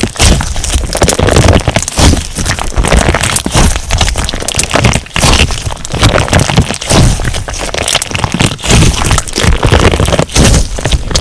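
Crunch slime being squeezed and pressed by hand: a dense run of crackles, pops and crunches with no let-up.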